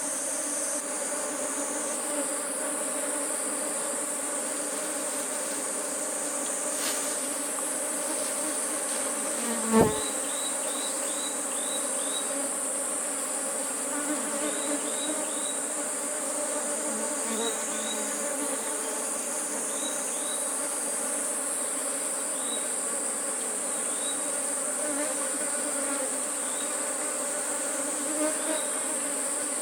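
Swarm of honeybees buzzing around an opened wild hive, a steady many-toned hum, over a constant high-pitched drone of forest insects. A single thump sounds about ten seconds in, and short falling chirps come now and then.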